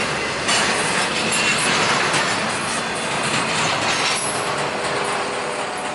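The last cars of a double-stack container freight train rolling past, with steel wheels clattering on the rails. The noise drops off about four seconds in as the end of the train clears.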